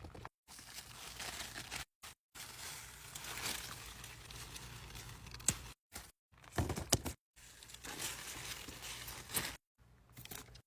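Rustling, tearing and crackling of leaves and stems as garden plants are handled and vegetables picked by hand, with a few sharp snaps. It comes in several short stretches that stop abruptly.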